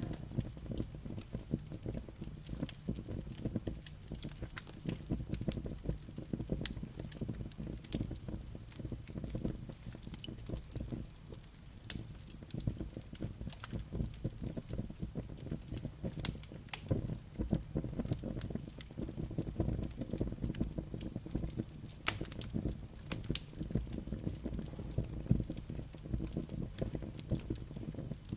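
Wood burning in a fireplace: a steady low rumble of flames with irregular sharp crackles and pops from the burning logs and embers.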